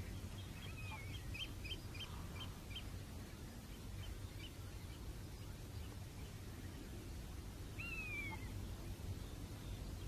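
Small birds calling: a quick run of about seven short chirps in the first three seconds, then a single falling whistle about eight seconds in, over a steady low background rumble.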